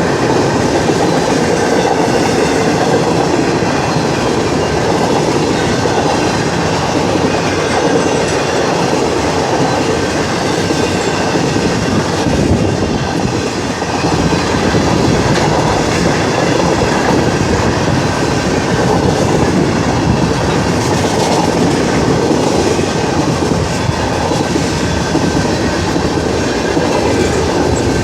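Train cars rolling steadily past, a continuous rumble with the clickety-clack of steel wheels over rail joints.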